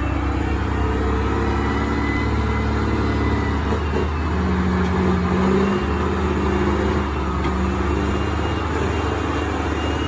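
Loaded logging truck's diesel engine labouring steadily up a steep, muddy climb, its pitch shifting a little as it works for traction.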